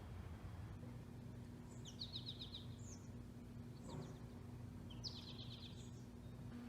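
A small bird sings two short, fast trilled phrases about three seconds apart, with a fainter call between them, over a steady low background hum.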